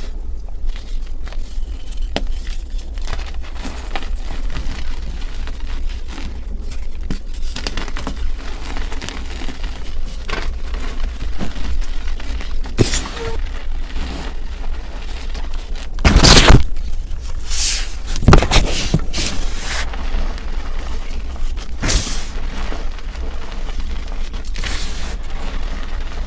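Dusty pink slabs crunching and crumbling as they are crushed: a steady crackle with sharp, louder crunches every few seconds, the loudest about two-thirds of the way through, over a low steady hum.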